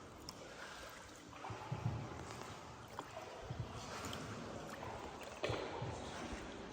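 Water splashing and lapping around a small boat, with a few dull knocks.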